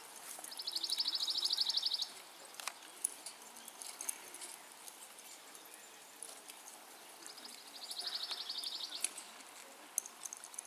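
A songbird's fast, even trill of rapidly repeated high notes, about a second and a half long, given twice about seven seconds apart.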